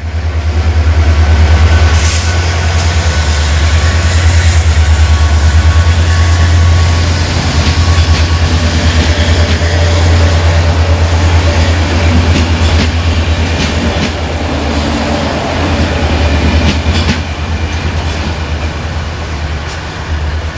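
Passenger train moving through the station alongside the platform: a loud, steady low rumble with scattered clicks and clatter from the wheels on the rails.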